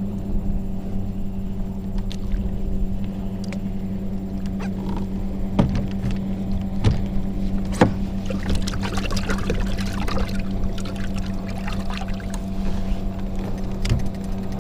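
A steady low hum with water splashing and trickling over it, and a few sharp knocks about halfway through; the hum stops abruptly at the end.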